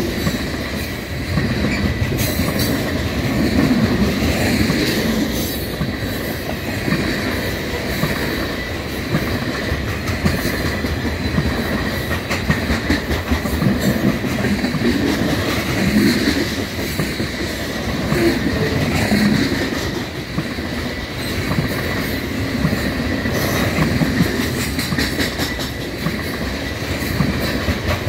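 Loaded coal gondolas of a freight train rolling past close by: steel wheels rumbling and clicking over the rail joints, with a thin steady high wheel squeal running underneath.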